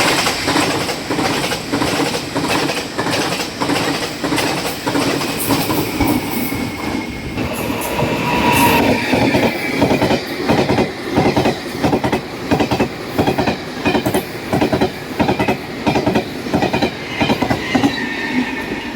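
Taiwan Railways train passing at speed, its wheels clacking in a steady rapid rhythm over the fishplated rail joints, with a faint wheel whine in the middle.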